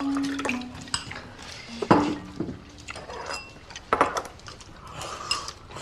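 Tableware clicking and clattering at a meal table: scattered light knocks of dishes, chopsticks and food containers, with sharper clicks about two and four seconds in.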